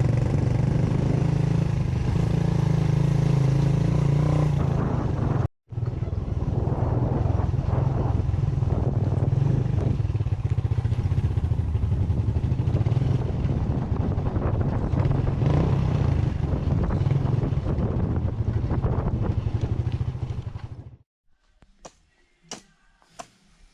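Motorcycle engine running steadily while riding. It drops out for an instant about five seconds in and cuts off near the end, leaving near quiet with a few sharp clicks.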